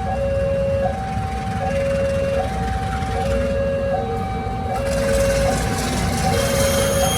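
Railway level-crossing warning alarm sounding a steady two-tone high-low pattern, each tone held just under a second, over a low rumble. A hiss grows from about five seconds in.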